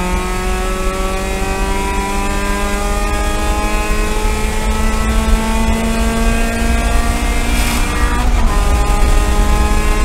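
Mazda Spec MX-5 race car's four-cylinder engine at full throttle, heard from inside the cockpit, its pitch climbing steadily as it pulls through a gear. About eight seconds in, a quick upshift drops the pitch, and it climbs again.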